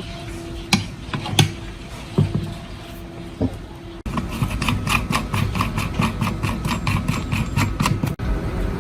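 Machinery running with a steady hum and a few sharp metallic clicks. After a cut, a fast, even knocking of about five strokes a second runs over the hum.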